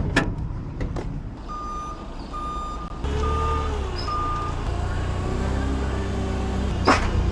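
Four short, evenly spaced electronic beeps, then a vehicle engine starts up about three seconds in and runs steadily. There is one sharp knock near the end.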